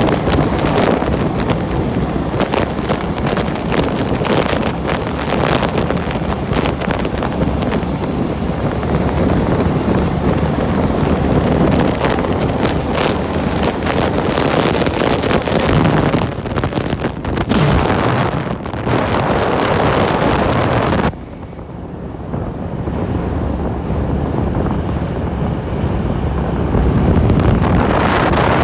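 Wind buffeting the microphone of a camera riding along on a moving bike: a loud, steady rush. It drops suddenly about three-quarters of the way through and swells again near the end.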